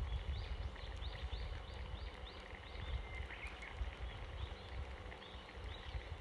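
A bird calling over and over in a quick series of short, high, arched notes, about three a second, over a low rumble.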